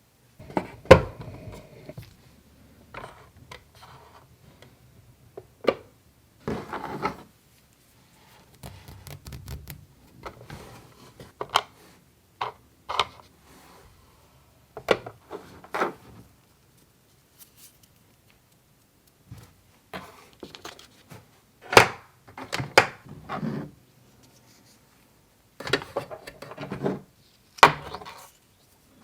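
Pieces of a toy mini kitchen set and toy food being handled and set down: scattered sharp clicks, taps and small knocks, some in quick runs, with short quiet pauses between.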